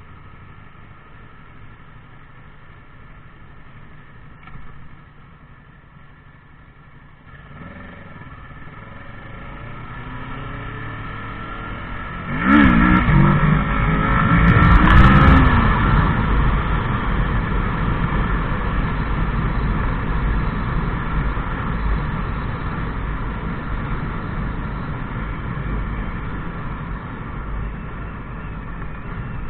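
Motorcycle engine, quiet at first, growing louder from about a quarter of the way in, then revving sharply up and down about halfway through and running on loudly and steadily to the end.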